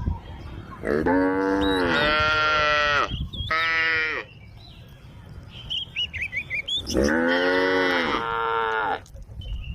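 Cows mooing: a long moo about a second in, a shorter one soon after, and another long moo about seven seconds in.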